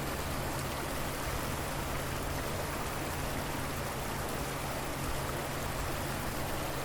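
River water flowing, a steady, even rush of running water.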